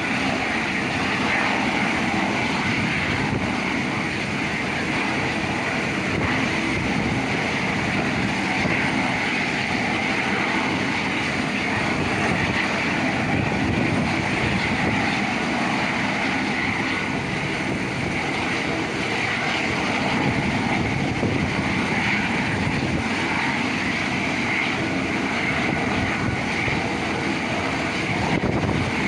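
Helicopter engine and rotor running steadily at idle before take-off, a loud, unchanging noise.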